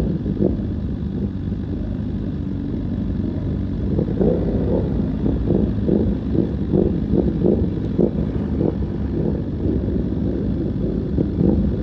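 Motorcycle running along at speed with heavy wind rumble on the microphone, pulsing a few times a second.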